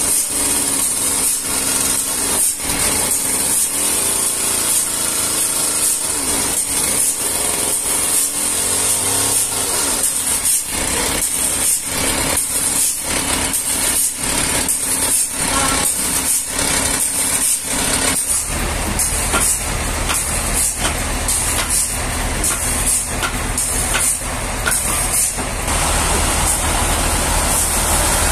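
Sawmill machinery running with a steady high whine and repeated knocks. A deep engine rumble joins about two-thirds of the way through.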